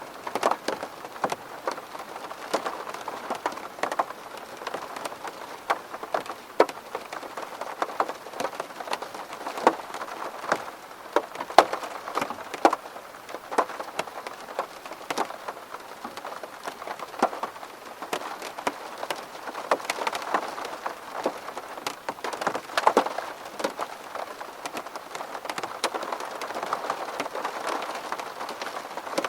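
Steady rain striking a window pane: a dense patter of individual drops clicking on the glass over a continuous hiss of rainfall.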